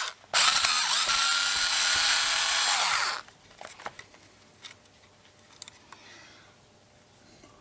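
Cordless drill running in short bursts to back out a small screw: a stuttering start, then a steady motor whine for about three seconds that cuts off. Faint clicks of handling follow.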